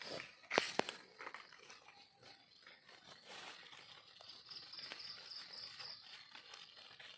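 Dry forest leaf litter crackling and rustling underfoot and under hand, with two sharp snaps about half a second in. An insect's rapid pulsed high trill comes in partway through.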